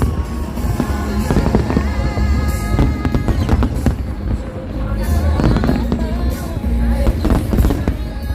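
Aerial fireworks going off: many bangs and crackles in quick succession, over music playing.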